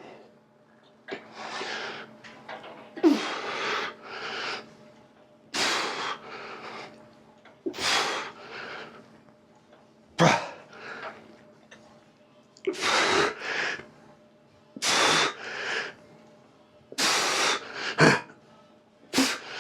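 A man breathing hard through a set of lat pulldowns: forceful blown-out breaths, often in pairs, about every two seconds, with each rep.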